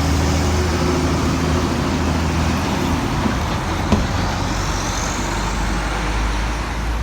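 Road traffic with a heavy truck's engine running: a low engine drone for the first three seconds that gives way to tyre and road noise. A single sharp knock comes about four seconds in, and a faint rising whine follows.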